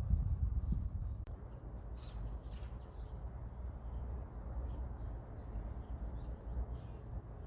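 Outdoor ambience: faint, scattered chirps of small birds over a steady low rumble.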